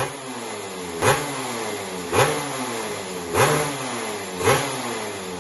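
Yamaha RX 250cc two-stroke motorcycle engine being blipped again and again, about once a second. Each blip is a quick rise in revs followed by a falling pitch as it drops back.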